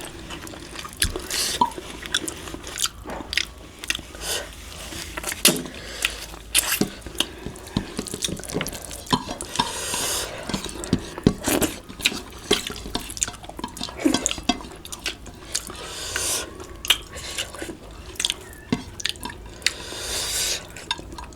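Close-up chewing and wet mouth clicks of a person eating, many short, irregular clicks and smacks.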